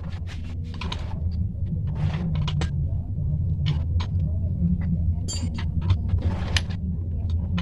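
Yamaha Vixion's 150 cc single-cylinder four-stroke engine running steadily after a cylinder block and piston replacement, with scattered sharp clicks over the engine sound.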